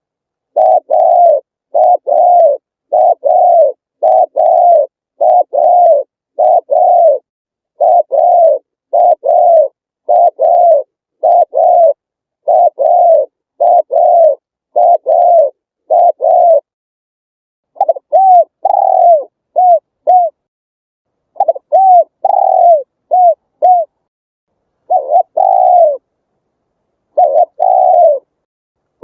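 Spotted dove cooing over and over: a steady run of short coos about one a second, then a short pause and looser phrases that mix quick clipped notes with longer coos.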